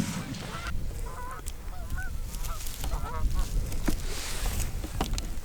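Canada geese honking, a string of short honks from about a second in to about three seconds in, over a low rumble of wind, with a couple of faint clicks later.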